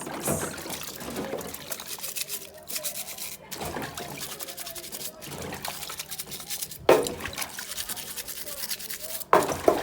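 Washing machine parts being scrubbed and worked loose: continuous scratchy rubbing, with two sharp knocks about seven and nine and a half seconds in.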